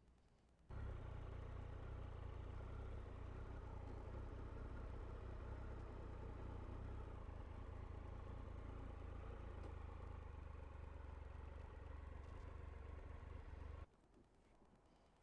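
Motorcycle engine running steadily at low revs, starting abruptly about a second in and cutting off suddenly near the end.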